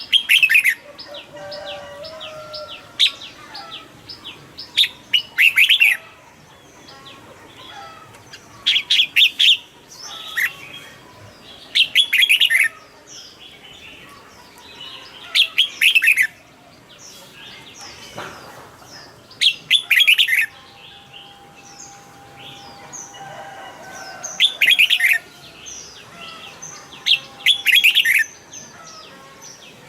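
Red-whiskered bulbul singing: short, loud, warbling phrases repeated every three to four seconds, with softer chirps between them.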